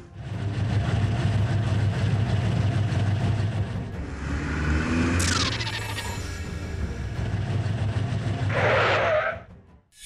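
Dubbed-in car engine sound effect running steadily as toy police vehicles drive out. About halfway a high sound sweeps down, a short rushing burst comes near the end, and then the sound cuts off suddenly.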